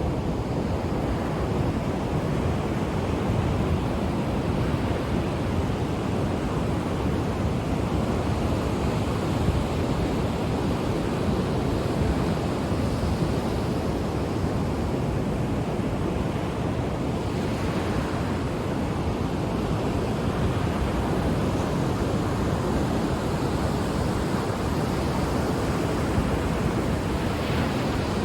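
Ocean waves breaking on a shore: a steady rush of surf, with brighter washes of breaking water a little past the middle and again near the end.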